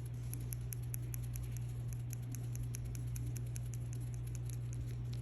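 Light, rapid, irregular clicking and tapping, several clicks a second, over a steady low hum.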